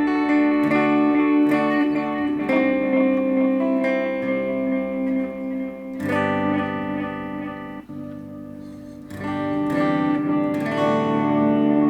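Electric guitar played through a Positive Grid Reactor 50 1x12 combo amp on an AI-generated ambient, ocean-themed tone. Chords are struck every second or few and left to ring, with a softer stretch about eight seconds in before the playing picks up again.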